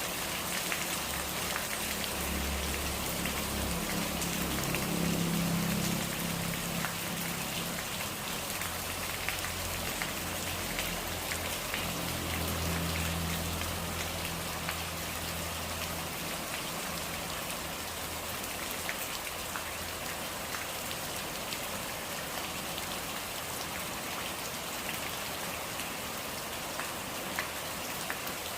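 Steady rain falling, a continuous hiss with scattered sharper drop ticks. A low hum comes and goes through the first half, then fades away.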